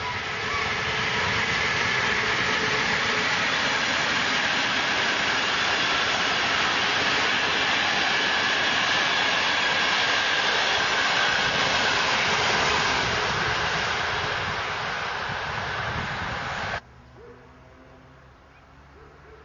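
Locomotive-hauled passenger train on an electrified line passing close by at speed: steady rushing and rumbling of wheels on rails that builds in the first second and eases slightly as the last coaches go by. It cuts off abruptly shortly before the end, leaving only a faint quiet background.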